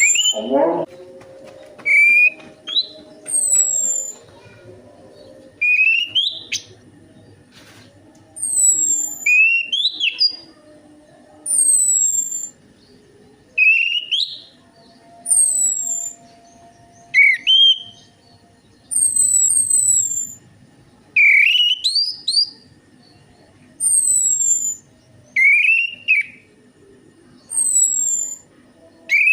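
Orange-headed thrush (anis merah) singing short whistled phrases, each a quick rising note followed by high falling notes, repeated every second or two.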